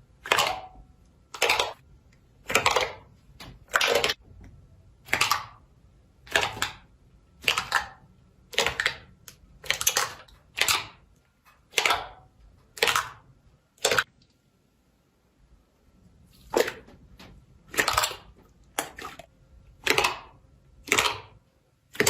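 Slime being pressed and poked, making crisp pops about once a second, with a pause of about two and a half seconds a little past the middle.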